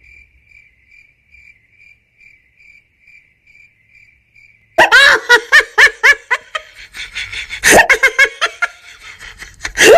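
Faint chirping, a high pulsing tone about twice a second. About five seconds in it gives way to loud laughter in quick repeated bursts.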